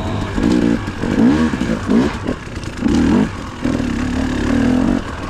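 Dirt bike engine revving in several short rising and falling bursts of throttle, then running at a fairly steady pitch for a second or so near the end.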